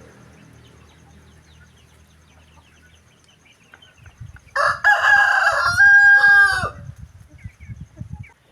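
A rooster crowing once, a loud call of about two seconds about halfway through, ending on a drawn-out, slightly falling note.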